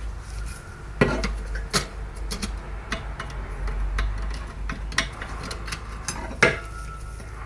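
Metal parts and tools clinking and knocking as they are handled, in irregular sharp strikes, the loudest about a second in and near the end, over a steady low hum.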